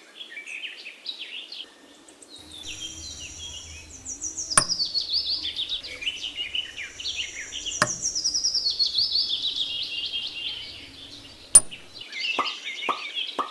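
Birds chirping and singing, with repeated falling trills. Three sharp clicks, a few seconds apart, as miniature bricks are set down in the bed of a toy truck.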